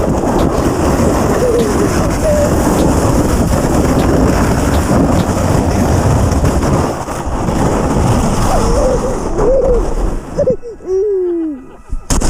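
Loud, steady rumbling noise of a sled being towed over snow by an RC truck, which drops away about ten and a half seconds in. A high voice calls out briefly a few times, mostly near the end.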